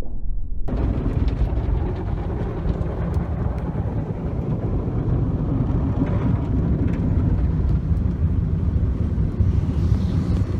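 Automatic tunnel car wash equipment working over a car, heard from inside the car: a loud, steady, dense rumble and wash that suddenly grows brighter about a second in and goes on without a break.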